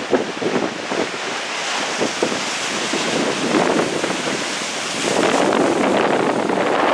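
Strong wind gusting and buffeting the microphone, with rain falling, rising to a louder, steadier rush about five seconds in.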